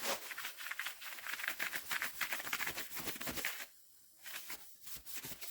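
Quick scratchy rubbing strokes by hand on a metal car trim piece, a fast irregular scrubbing that pauses briefly near the end.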